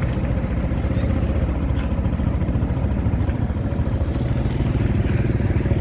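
Heavy diesel engine of road-paving machinery running steadily, a fast low throb with a faint steady hum above it.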